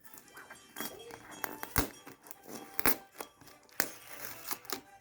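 Silicone Pop It fidget toy bubbles being pressed through, popping with sharp clicks. The three loudest pops come about a second apart, with softer ones between.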